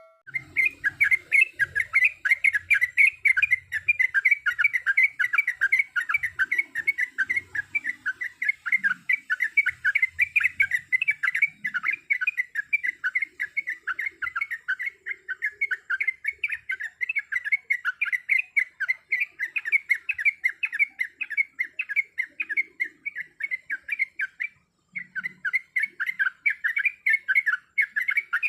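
Yellow-vented bulbul (trucuk) singing in a long, fast, continuous run of short warbling chattering notes, with one brief break near the end.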